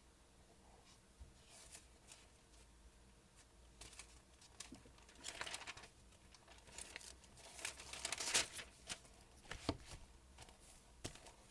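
Paper rustling and crinkling in short, irregular bursts, loudest about eight seconds in.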